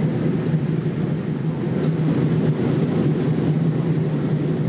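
Steady cabin noise inside a Boeing 787-8 airliner during descent: an even low drone of engines and rushing air, with a few faint ticks about two seconds in.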